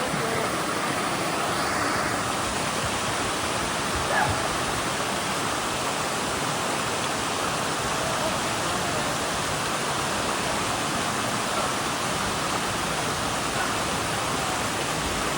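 Waterfall rushing close by, a steady, even sound of falling and splashing water with no letup.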